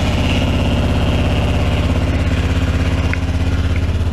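Carbureted Honda Rincon ATV's single-cylinder four-stroke engine running steadily just after a cold start.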